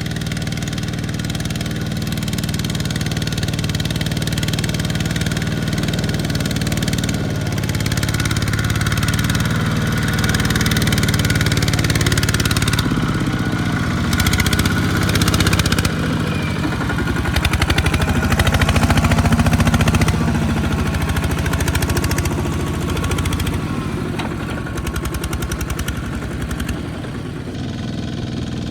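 Engines of small farm tractors running steadily, getting louder toward the middle and easing off near the end.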